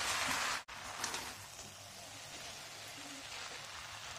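Hakka noodles and vegetables sizzling in a hot pan as they are tossed and mixed, a steady crackling hiss. The sound drops out briefly under a second in.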